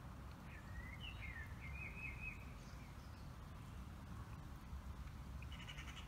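Faint bird calls: a short run of rising and falling chirps ending in a buzzy trill about a second in, then a brief buzzy note near the end, over a low steady rumble.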